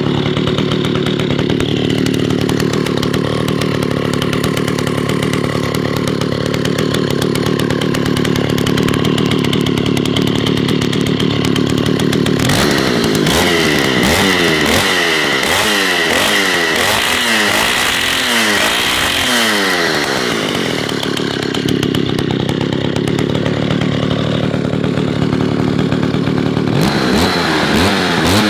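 Alpina two-stroke chainsaw running steadily, then from about halfway its engine speed rises and falls over and over for several seconds before settling back to a steady run; the engine speed starts swinging again near the end.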